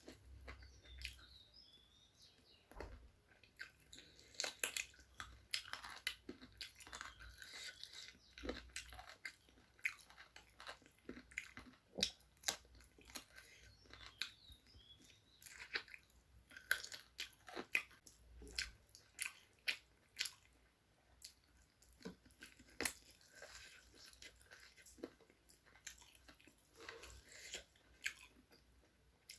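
Close-miked chewing and biting of chicken leg curry with rice: irregular wet smacks and sharp clicks, several a second.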